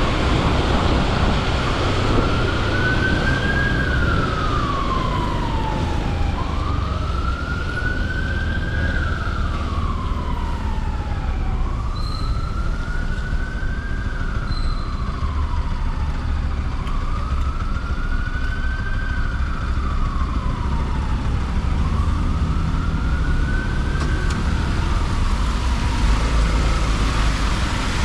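An emergency vehicle's siren wailing in slow sweeps, each rising briefly and then gliding down over a few seconds, about one every five seconds, starting a couple of seconds in. Underneath is the steady low rumble of a motorcycle's engine and road noise.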